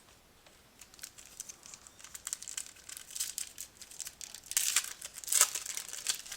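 Foil wrapper of a trading-card pack crinkling and tearing as the pack is opened by hand, in dense irregular crackles that grow busiest and loudest near the end.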